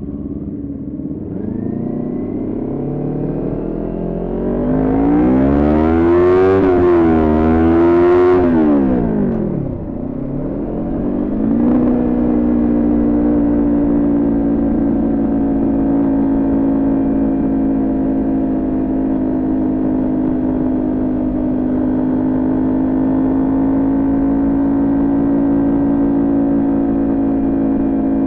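Kawasaki Ninja 400's parallel-twin engine accelerating, its pitch rising over the first several seconds and wavering, then dropping steeply as the throttle closes about eight to ten seconds in. It picks up again and settles into a steady pitch at cruising speed.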